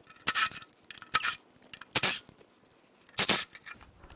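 Metal hand tools clinking and scraping in about four short bursts, as the oil-pan bolts are worked on a GM 5.7L Vortec V8.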